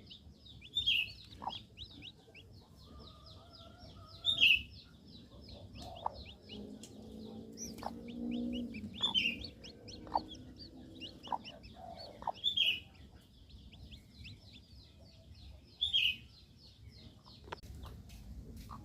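Newly hatched village chicken chicks peeping: a rapid, continuous stream of high, falling chirps, several a second, with a louder burst of peeps every few seconds. A lower-pitched call comes in briefly about a third of the way through, and there are a few short taps.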